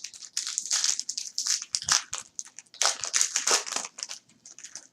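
Plastic wrapper of a trading card pack being torn open and crinkled by hand, in irregular crackly bursts, busiest about half a second in and again around two to three and a half seconds in.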